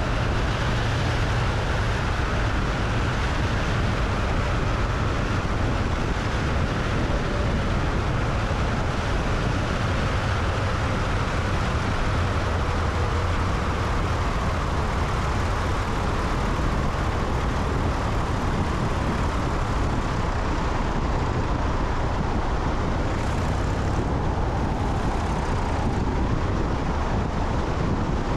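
Cessna 172's piston engine and propeller running steadily in flight, with heavy wind noise on a microphone out on the wing.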